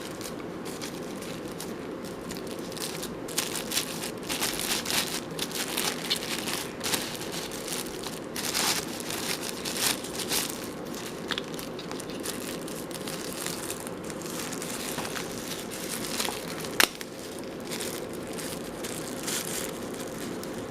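Packaging crinkling and rustling in irregular handfuls as sunglasses are unwrapped and handled, busiest in the first half, with one sharp click about three-quarters of the way through.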